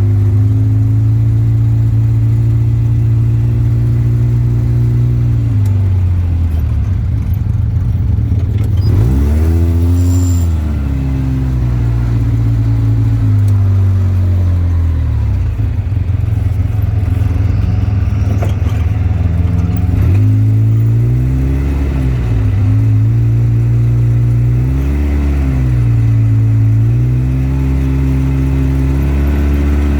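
Engine of an off-road vehicle running at low revs, its pitch dipping and rising again several times as the throttle is worked.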